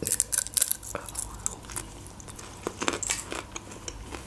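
Close-up crunching and chewing of a dry, crunchy snack being bitten and chewed: a scatter of short, sharp crunches.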